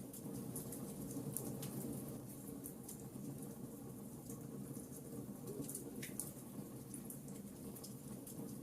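Campfire burning steadily, its wood crackling and popping with scattered sharp cracks over a low, even background of burning.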